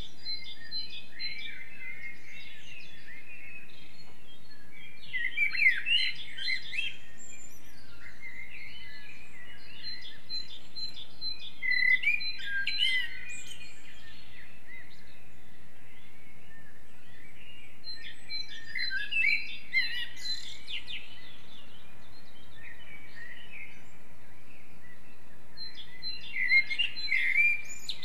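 A chorus of several songbirds singing in a forest, overlapping chirps and trills. Louder song phrases come every six to eight seconds, with a fast repeated high note among them, over a steady background hiss.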